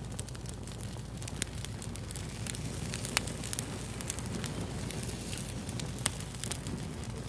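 Fire crackling: a steady bed of small snaps and pops, with a few sharper, louder pops standing out.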